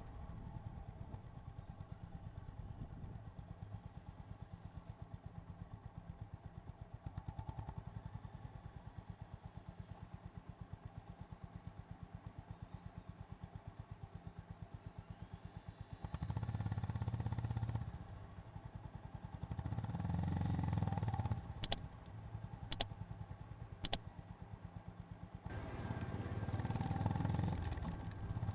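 Honda GB350's air-cooled single-cylinder engine ticking over with an even low thump for the first half, then growing louder in short stretches as the bike pulls away. Three sharp clicks come in the middle of the second half, and the engine rises in loudness again near the end.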